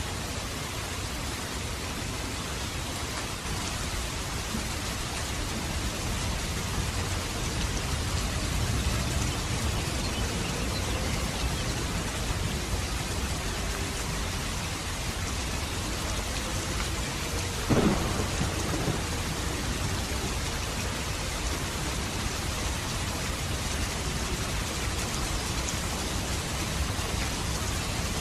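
Steady heavy rain with low rumbles of thunder swelling through it, and one sharp loud crack about two-thirds of the way through.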